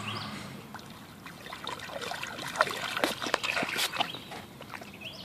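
A small child's feet splashing in a shallow rainwater puddle, with a quick run of splashes through the middle.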